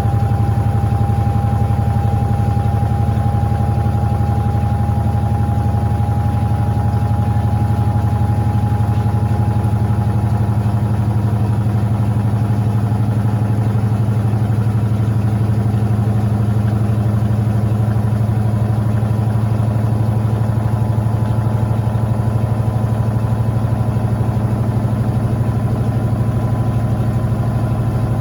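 Electrolux LTA15 washing machine running steadily: a constant low hum with a faint whine that slowly rises in pitch.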